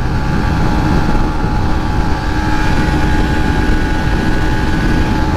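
Yamaha Sniper 150's single-cylinder four-stroke engine held flat out near top speed, at about 135 km/h, its drone holding a steady pitch under heavy wind rush over the microphone.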